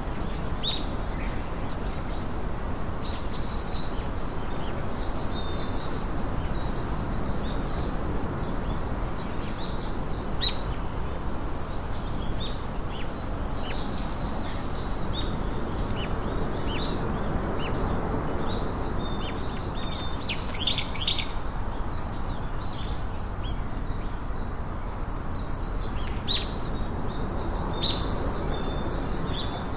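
Small songbirds chirping in quick, scattered calls over a steady background hiss, with a denser flurry of chirps about two-thirds of the way through.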